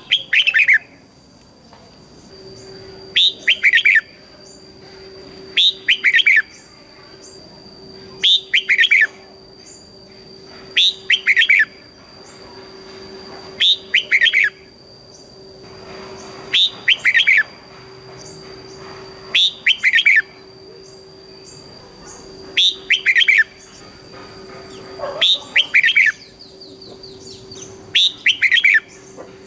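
Red-whiskered bulbul singing short, loud song phrases about every two and a half to three seconds. Each phrase is a quick doubled burst of whistled notes, the 'double' song style that bulbul keepers prize. A faint steady hum and high whine run underneath.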